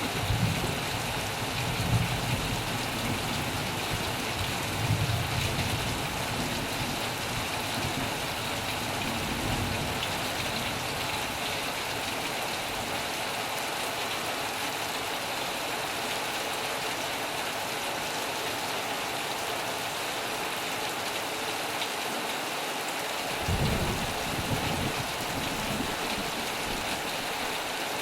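Heavy rain falling steadily, with low rumbles of thunder during the first ten seconds and again a little over 23 seconds in.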